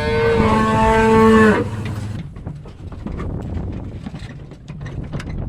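A cow mooing once, one long steady call that stops about a second and a half in. After it, a low rumbling noise with scattered faint knocks carries on.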